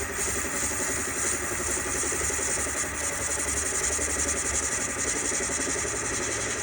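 Small metalworking lathe running steadily as its cutting tool faces off a small engine cylinder cap, a continuous motor hum with the hiss of the cut.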